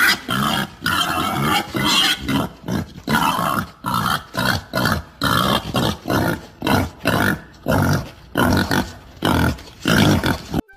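An animal calling in quick repeated bursts, about two a second, stopping abruptly near the end.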